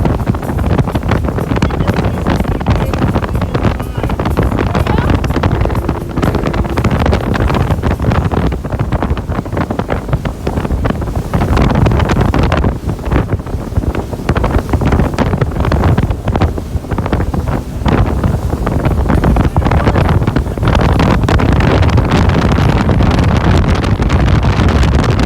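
Motorboat running at speed, a Four Winns Horizon with its 5.7-litre V8 and Duoprop sterndrive, heavily buffeted by wind on the microphone. The noise is loud and constant, rough and fluctuating.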